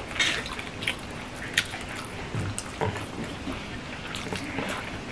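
Close-up eating noises: wet chewing and lip-smacking while eating rice and fish curry by hand, with a few short clicks scattered through.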